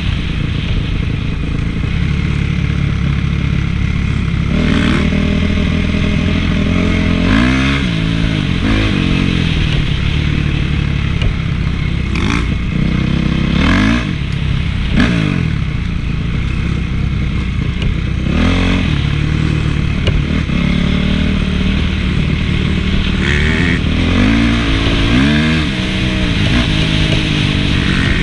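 Honda CRF450 single-cylinder four-stroke motocross engine on the move, revving up and down over and over as it accelerates and backs off. It comes with a few short knocks and clatter from the bike.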